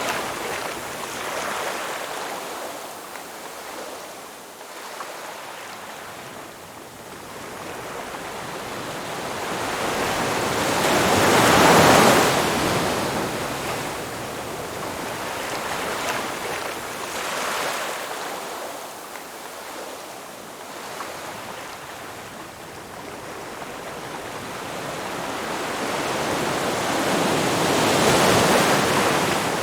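Ocean waves breaking on a shore, a hissing wash that swells and ebbs. The largest wave crashes about twelve seconds in and another near the end, with smaller surges between.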